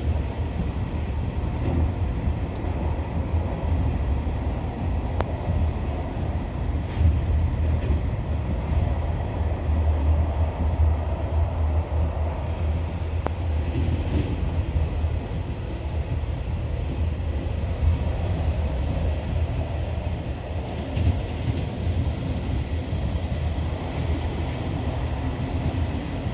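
Passenger train running along the track, heard from inside the carriage: a steady low rumble from the wheels and rails.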